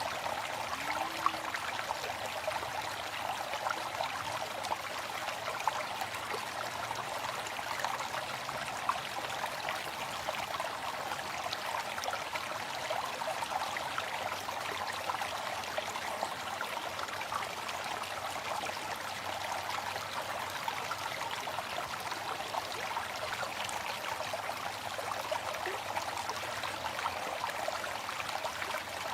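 Waterfall: a steady rush of falling water, mostly a bright hiss with little low rumble.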